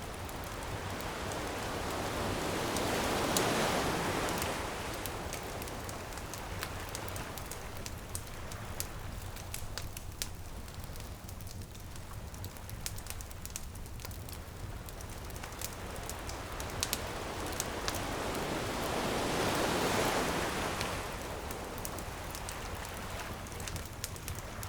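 Ocean waves washing ashore twice, each swelling and fading, over a crackling bonfire that gives frequent small pops and snaps.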